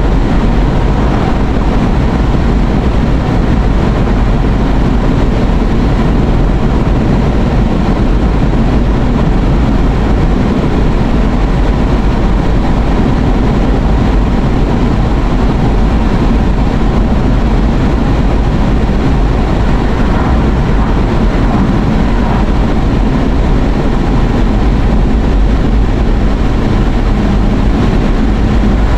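Steady road and engine rumble inside a moving car's cabin, heaviest in the low end.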